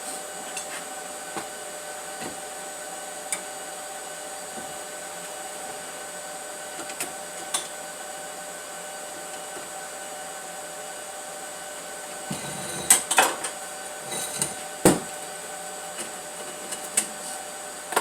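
A steady mechanical hum runs underneath a few scattered light clicks. Sharp metallic knocks and clinks cluster about two-thirds of the way through, typical of metal parts being handled and tapped.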